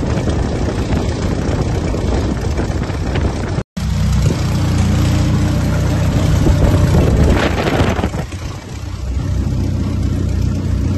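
Kitfox 2's D-Motor engine and propeller running steadily on a ground run. It briefly cuts out a little over three seconds in, swells in power, then drops back sharply about eight seconds in before settling to a steady run.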